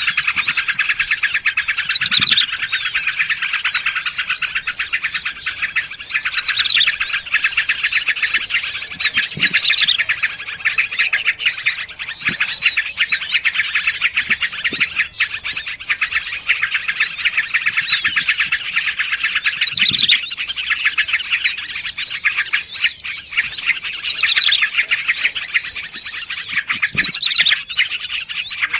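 A dense, layered chorus of small songbirds chirping and trilling without a break, with faster rapid trills twice. It is a mixed bird-lure recording meant to draw wild birds in.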